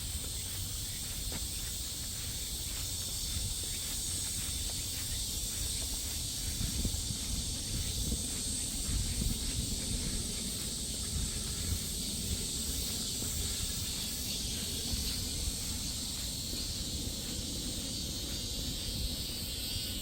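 Steady high-pitched insect chorus that holds without pause, over a low rumble from walking.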